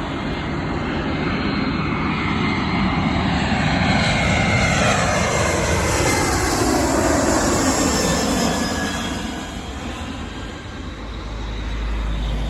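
Airbus A321-211 jet airliner's twin turbofan engines as it flies past. The roar builds to its loudest in the middle while its whine slides steadily down in pitch, then eases off near the end.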